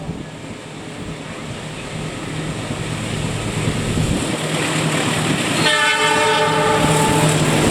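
A diesel-hauled train approaching and growing steadily louder, its engine running with a steady low drone. About two-thirds of the way through, the locomotive sounds one horn blast of roughly a second and a half.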